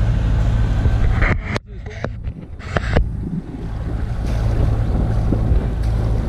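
Boat engine running steadily with wind on the microphone. About a second and a half in, the sound drops away briefly between two sharp clicks, then the steady engine hum returns.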